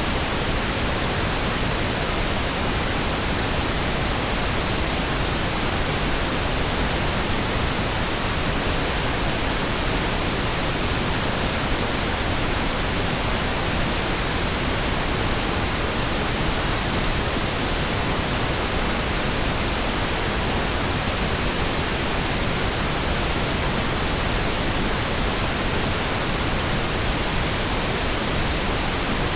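Steady synthetic pink noise: an even, continuous hiss with no changes or breaks.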